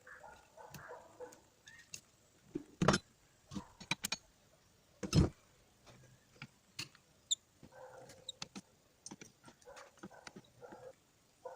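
Metal parts and tools handled on a workbench: a series of irregular knocks and clinks, two sharper ones about three and five seconds in, with stretches of softer rubbing or scraping between them.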